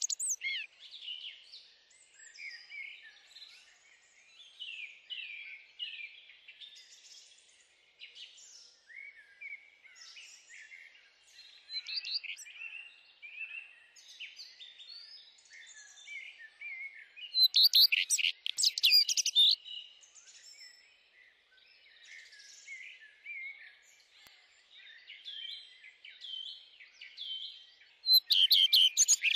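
Songbirds chirping and calling, many short chirps and whistles overlapping, with a louder burst of rapid song notes around the middle and again near the end.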